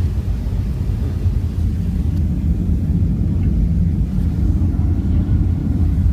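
Steady low rumble of engine and airflow noise heard inside the passenger cabin of a Boeing 757-300 airliner descending toward landing.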